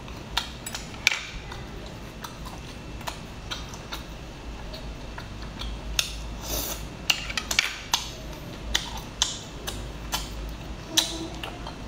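Irregular light clicks and clinks of utensils against dishes during a seafood meal, a dozen or so scattered taps.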